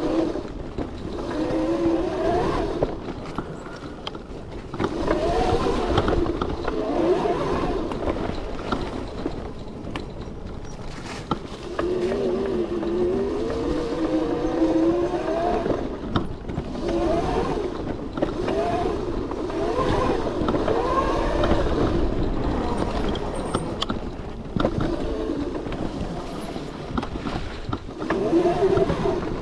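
A 72-volt converted Razor MX650 electric dirt bike's motor and drive whining, the pitch rising and falling with throttle and speed. Under it are a rough rumble and wind from riding over trail ground, with scattered knocks.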